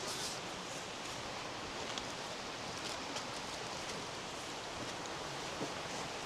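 Steady, even outdoor rushing noise with a few faint ticks.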